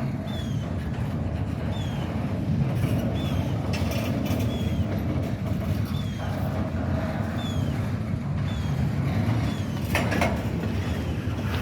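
Norfolk Southern freight train running with a steady low rumble and a faint hum. A short high chirp repeats about once a second throughout, and there are two brief clicks, one about four seconds in and one near the end.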